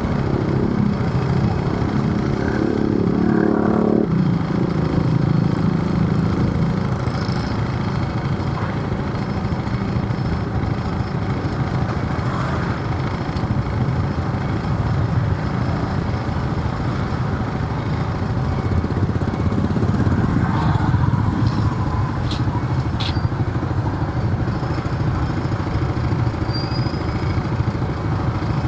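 A vehicle engine running on the move amid steady city traffic noise, with a pitched engine tone that changes about four seconds in.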